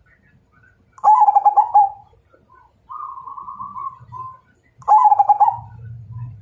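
Perkutut (zebra dove) cooing: two loud, rolling phrases of quick notes, about a second in and again near five seconds, with a softer, drawn-out coo between them.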